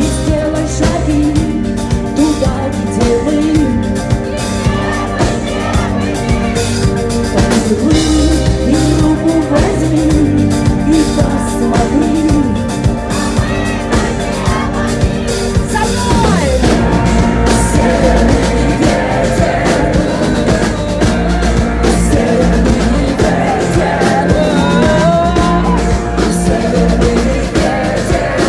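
Live rock band playing an instrumental passage: drum kit and bass under melodic lines. The arrangement changes about halfway through, with gliding melodic lines coming to the front.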